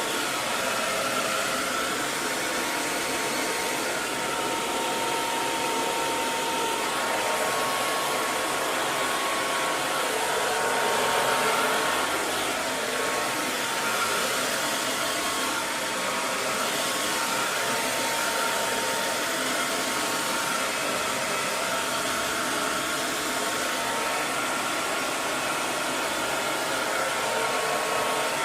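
Hair dryer running steadily: a constant airy blowing hiss with a faint steady whine, used as white noise for soothing a baby to sleep.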